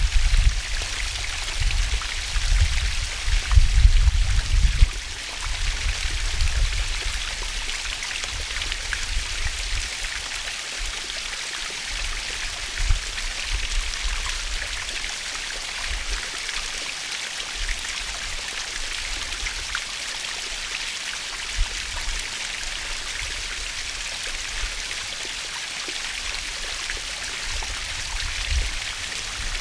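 Natural waterfall: a steady, even rush of falling water with a hissing edge. Low rumbling surges come and go under it, heaviest in the first five seconds.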